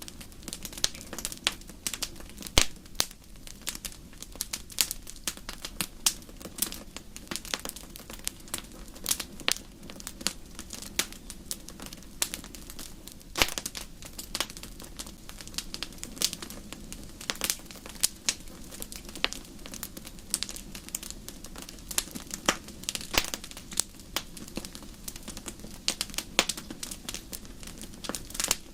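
Wood fire crackling: irregular sharp pops and snaps over a steady low background.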